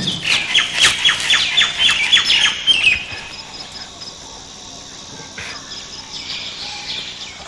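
A bird calling in a fast series of harsh, high notes, about four a second, for about three seconds, then fainter calls against a quiet outdoor background.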